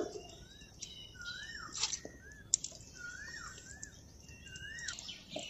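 A bird calling repeatedly: a short whistle that rises and falls, about once a second, with higher chirps between and a few faint clicks.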